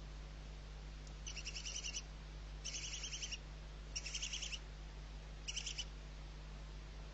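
Barn owl calling in four short bursts of rapid, high-pitched chittering, each lasting about half a second to a second, over a steady low hum.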